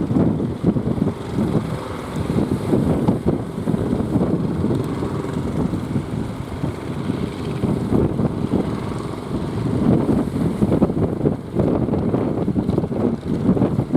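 Strong wind buffeting the microphone: a low, rumbling, gusty noise that rises and falls in strength.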